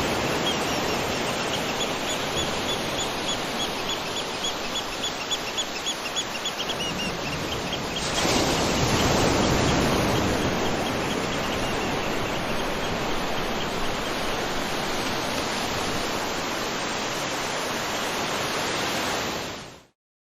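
Waterfall rushing steadily, with a bird repeating a short high note about four times a second through the first half. The water grows louder about eight seconds in, then fades out near the end.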